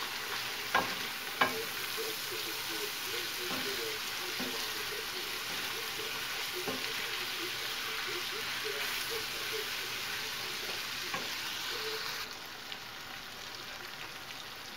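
Ground beef, onion and mushroom slices sizzling in a frying pan while a wooden spoon stirs them, with a couple of sharp knocks of the spoon against the pan about a second in. The sizzle turns a little quieter near the end.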